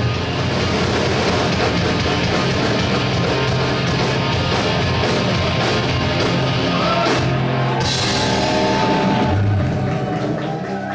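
Rock band with drum kit, electric guitars, bass and keyboard playing loudly through the closing section of a song, with cymbal strikes and held notes, the sound dying down near the end.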